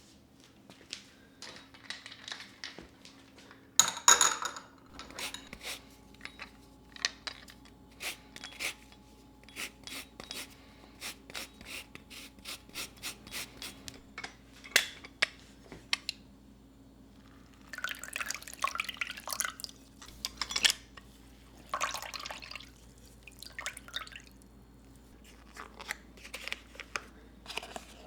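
Household objects being handled: a long run of light taps, clicks and small clatters, with a few longer rustling or scraping stretches.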